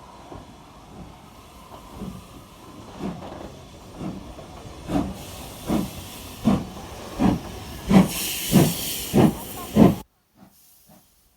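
Steam locomotive pulling away: exhaust chuffs about one and a half a second, growing louder and slightly quicker, with a steam hiss that builds near the end. About ten seconds in the sound cuts suddenly to faint, distant chuffs.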